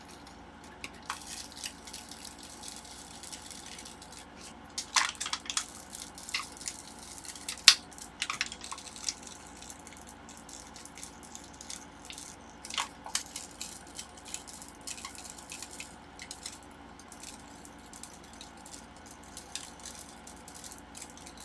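Plastic pry tools clicking and scraping as a tablet battery is slowly worked free of strong adhesive: scattered faint clicks and crackles, in small clusters about five, eight and thirteen seconds in, over a faint steady hum.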